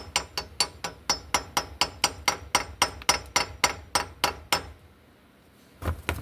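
Light hammer taps with a metallic ring, about four a second, starting a part into its seat on an engine; they stop about four and a half seconds in, and two duller knocks follow near the end.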